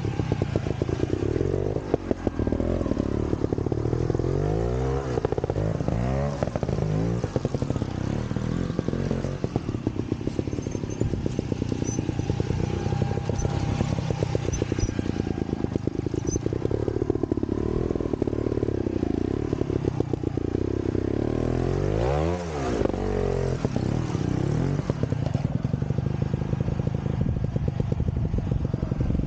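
Vintage trials motorcycle engine running at low revs, the revs rising and falling every second or two, with one short dip and pick-up in the last third.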